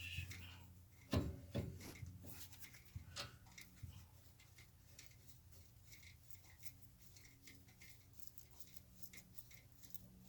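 A few sharp knocks and clicks of hand tools and parts being handled, the loudest about a second in, then light scattered ticking.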